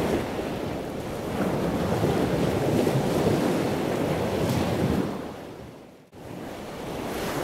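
Steady rushing water noise, a surf-like wash that fades down about five seconds in, breaks off briefly, then comes back quieter.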